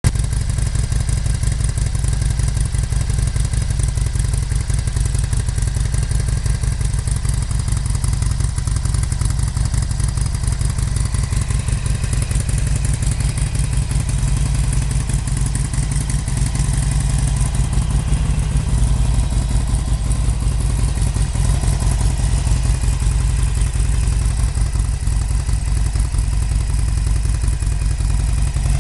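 Harley-Davidson Sportster 883 SuperLow's air-cooled V-twin idling steadily, a continuous low pulsing rumble with no revving.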